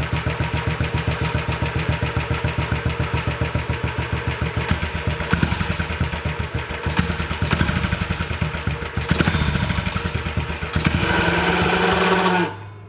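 Minibike engine with a newly built exhaust running with an even, pulsing beat, its speed wavering in the middle and then held at a steadier, higher pitch before it cuts off abruptly near the end.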